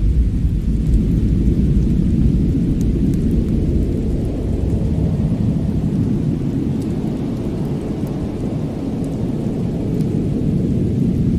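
Fireplace fire burning with a steady low rumble and a few faint, sharp crackles.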